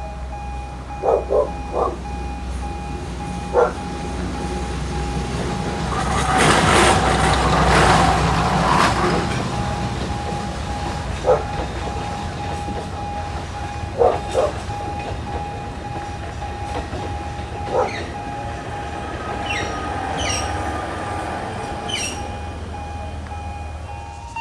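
Alishan Forest Railway train running, a steady low rumble with a steady tone over it. A swell of hissing noise comes about six to nine seconds in, and a few short sharp sounds are scattered through.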